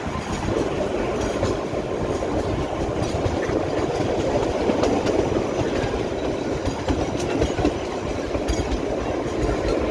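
Kalka–Shimla narrow-gauge toy train running along the track, heard from on board: a steady rumble of wheels and carriages with faint clicking from the rails.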